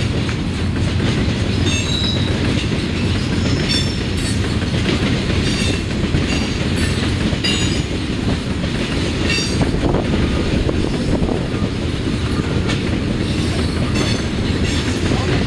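Freight train of tank cars rolling past: a steady rumble and clatter of wheels over the rail joints, with brief high metallic squeals and clanks every second or two.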